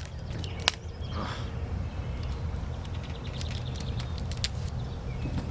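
Sharp snaps of rubber bands being stretched and let go around a watermelon, one loud snap about a second in and a few more near the middle and later, over a steady low rumble.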